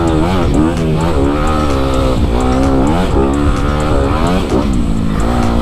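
Single-cylinder four-stroke engine of a Honda CRF250RX dirt bike being ridden off-road, its revs rising and falling again and again with the throttle. Low wind rumble on the microphone runs underneath.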